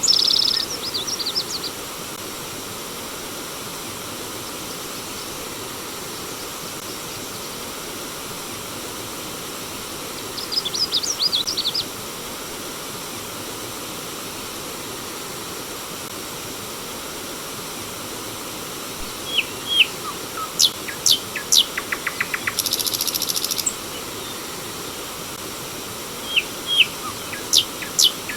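Steady running water from a forest stream, with birds chirping in short bursts over it: a quick trilled phrase at the start, another around ten seconds in, then a busier run of chirps and fast trills from about nineteen seconds until near the end.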